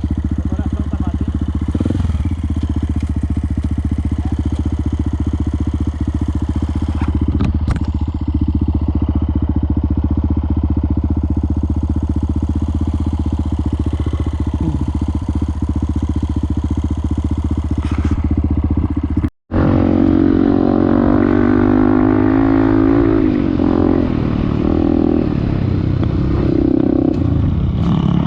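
Motorcycle engine running at a steady speed under way. After a sudden break about two-thirds through, an engine revs up with a rising pitch and then keeps changing speed.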